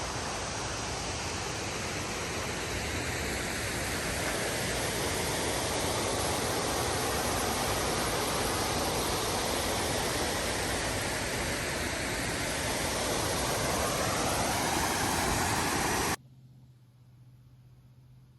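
Waterfall rushing: a steady wash of falling water. It cuts off suddenly about 16 seconds in, leaving faint room tone with a low hum.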